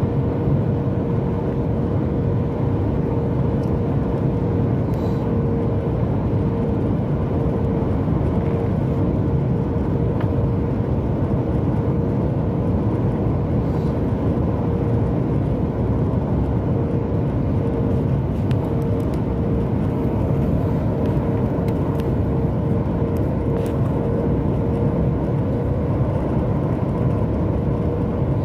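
Steady in-flight cabin noise of a Boeing 737 MAX 8: a constant roar of airflow and engines, with a steady whine running through it.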